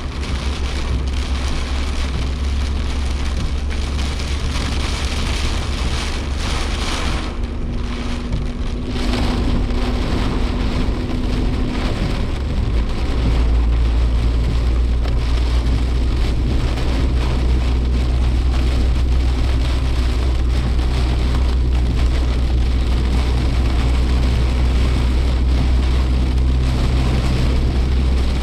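Inside a Suzuki Jimny Sierra driving through heavy typhoon rain: a steady low engine and road drone under a constant hiss of rain and tyre spray on the body. The hiss briefly drops about eight seconds in, and the sound grows a little louder after that.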